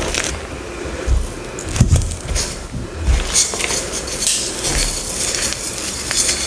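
Dyed gym chalk blocks being crushed, an irregular run of dry crunching and crackling with a few dull knocks in the first half.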